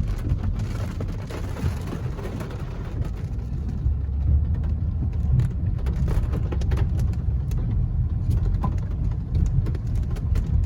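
Car driving, heard from inside: a steady low rumble of engine and tyres on the road, with scattered light ticks and knocks.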